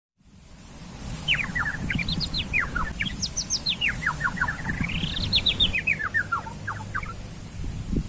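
A songbird singing a rapid run of short chirps. Each note sweeps downward, and the notes come in phrases that climb and then fall in pitch over several seconds. Low rumbling noise runs underneath.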